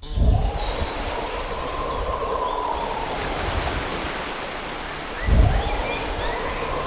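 Ocean waves washing on a shore, a steady rushing with deep rumble, surging at the start and again about five seconds in. Short high chirps sound now and then above it.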